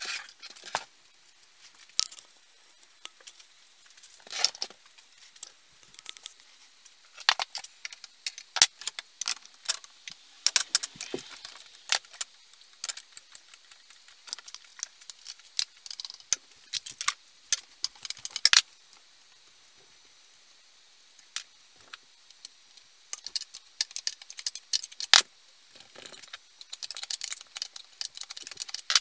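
Irregular clinks, taps and rattles of small metal parts and hand tools being handled, in scattered bursts with a short quiet spell past the middle.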